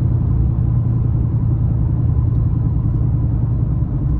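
Ford Mustang GT's V8 running steadily at an even cruise, heard from inside the car as a constant low rumble.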